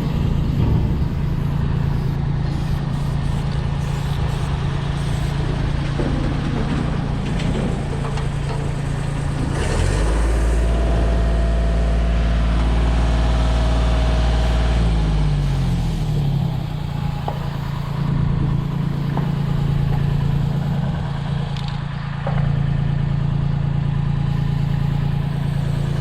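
Engine running steadily at idle. About ten seconds in a deeper, louder note joins, then falls in pitch and eases off a few seconds later.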